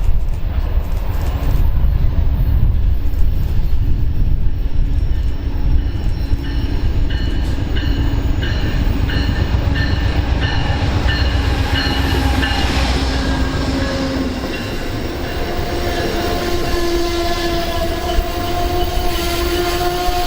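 A train running past with a heavy low rumble, and a short repeated high tone in the middle. A horn sounds in the last several seconds.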